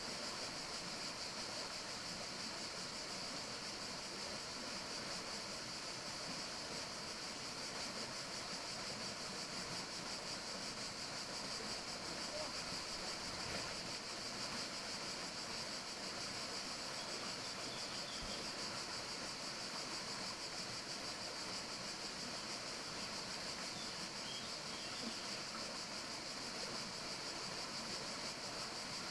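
Steady forest ambience: an even high hiss with a few faint bird chirps.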